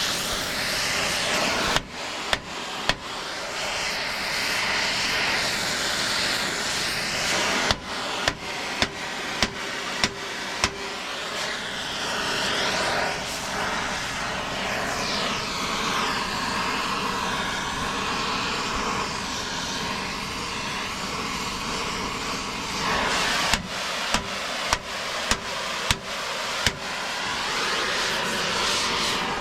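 Heavy hammer blows on steel, about two a second, in three runs, driving a cracked weld seam's gap closed before it is tack-welded, over a steady background noise.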